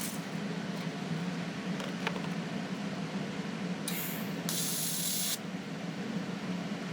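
Welder arcing in two short back-to-back bursts about four seconds in, a hissing crackle about a second and a half long in all, filling a small hole that opened up at a tack weld on a new brake adjuster tab. A steady low hum runs underneath.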